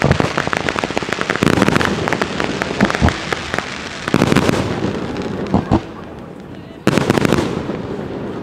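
Fireworks display: dense crackling and rapid popping from bursting shells, with deep booms about three seconds in and near six seconds. A fresh loud burst of crackling comes about seven seconds in and then fades.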